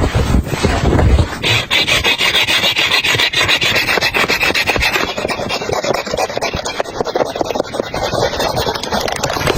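Continuous rough scraping, with its sharpest, hissiest part in the first half.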